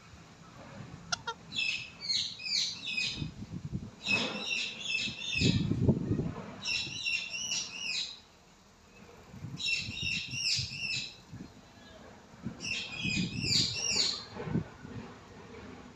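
Indian ringneck parakeet calling in five quick bursts, each a fast run of repeated high chirping notes lasting about a second, with low rumbling noises in between.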